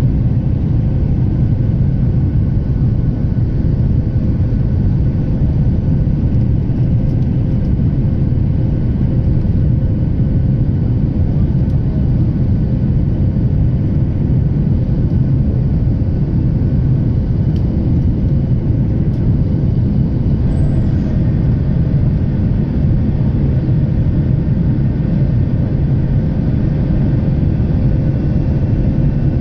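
Steady low rumble of a Boeing 737's jet engines at high power, with a faint steady hum over it and no change in loudness.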